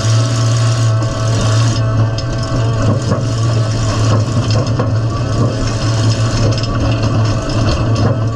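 Midsize demolition derby car's engine idling, heard from inside the stripped-out cab: a loud, steady low drone.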